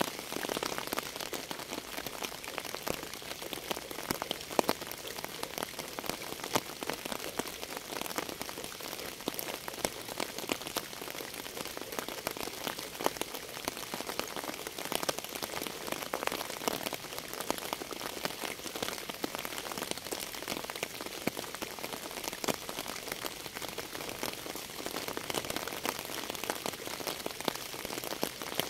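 Steady rain, with many individual drops ticking sharply on a hard surface over a continuous hiss.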